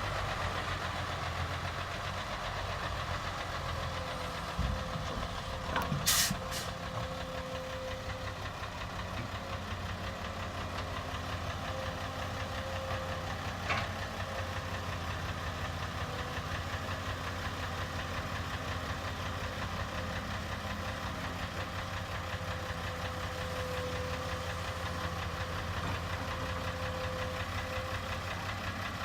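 Heavy diesel engine of construction machinery running steadily, with a few sharp clanks about five to six seconds in and again near halfway.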